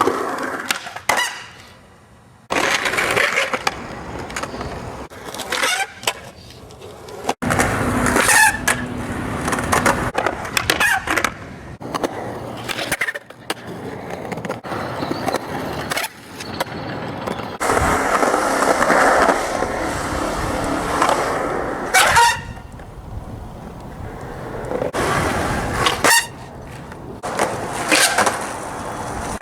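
Skateboard rolling and sliding on pavement in repeated powerslides, the wheels scraping and squealing across the ground, with several sharp knocks of the board.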